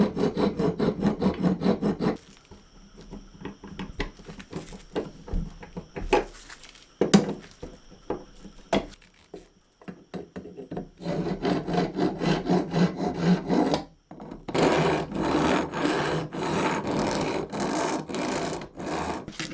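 Abrasive rubbed back and forth by hand over the parts of an old hand drill, in quick even strokes of about four a second. The strokes come in three spells, with a quieter stretch of scattered clicks and taps after the first.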